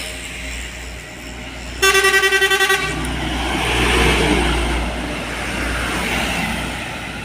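A vehicle horn toots for about a second in a fast pulsing series. Then a heavy truck's engine and tyres pass by, swelling and fading away.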